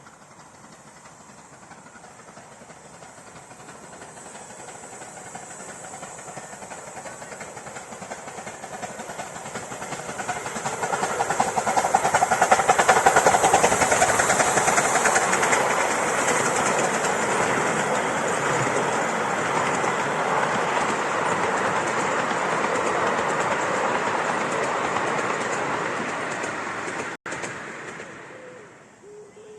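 Steam-hauled train approaching and running past, its wheels clattering over the rail joints. It grows louder for about twelve seconds, stays loud, then cuts off abruptly near the end.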